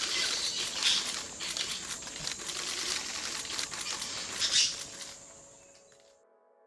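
Insects droning in a steady high-pitched buzz, with scattered crackling and rustling clicks over it. Everything fades out about five to six seconds in, and faint music begins near the end.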